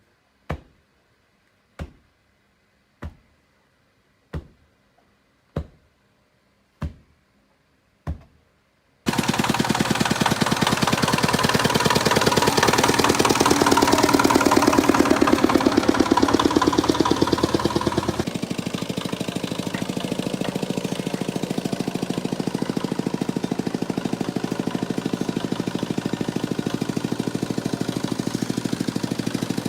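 Seven evenly spaced hammer blows, about a second and a quarter apart. About nine seconds in, a small engine starts running abruptly with a fast rattling beat, then drops in level about halfway through and keeps running.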